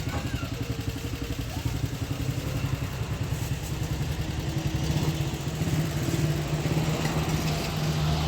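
A motor vehicle's engine running steadily, picking up a little in speed and loudness about halfway through.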